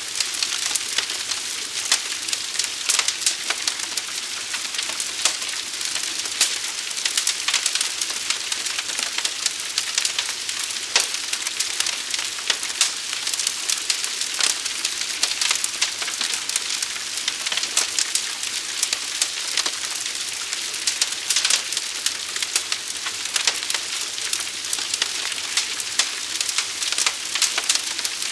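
Large fire burning: a dense, steady crackle with frequent sharp pops.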